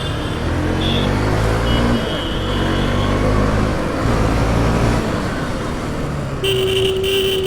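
Motorcycle engine accelerating through traffic, its pitch climbing and dropping back as it shifts up, over a steady rush of wind noise. About six and a half seconds in, a vehicle horn sounds steadily for over a second.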